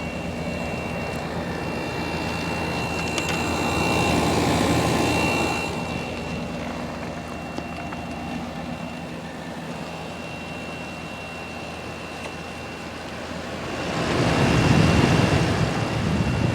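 Samsung 10,200 BTU window air conditioner running with its rotary compressor cooling and its fan blowing, a steady hum with a thin high whine, very quiet for its size. Two louder swells of rushing noise rise and fade, about four seconds in and again near the end.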